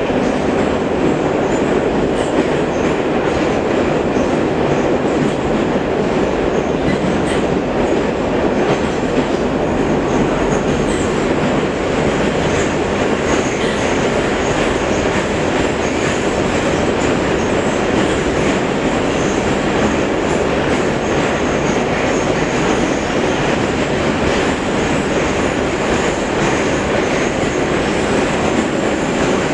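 Metro train running at steady speed through the tunnel: a constant rumble of steel wheels on the rails, with no stop or change.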